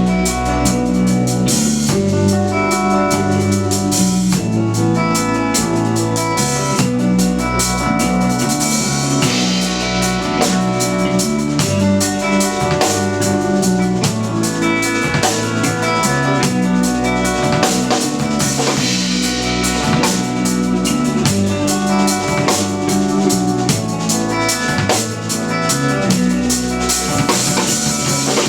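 Live instrumental post-rock played by a trio of electric guitar, electric bass and drum kit: busy drumming with bass drum and snare under sustained guitar notes and a steady bass line.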